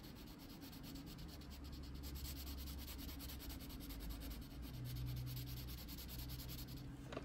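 Prismacolor colored pencil shading on paper, faint rapid, even back-and-forth strokes, several a second.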